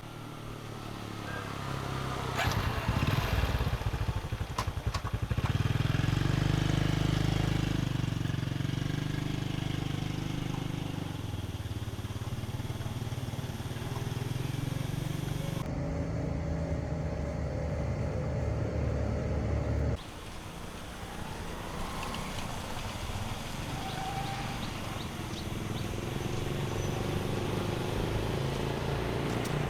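Motorbike engine running, its note rising and falling in speed, with an abrupt change about twenty seconds in.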